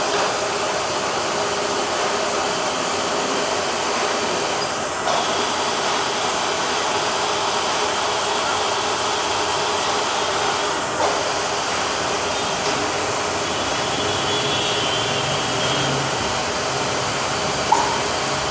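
Milling machine running with a steady whirring noise, broken by a few faint brief clicks.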